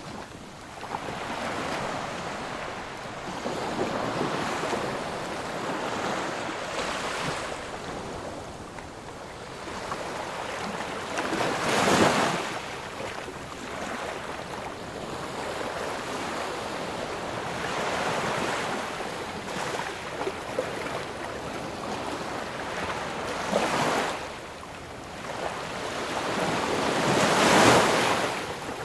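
Ocean surf: waves breaking and washing in as a steady rush of noise that swells and ebbs, with the biggest crashes about twelve seconds in and again near the end.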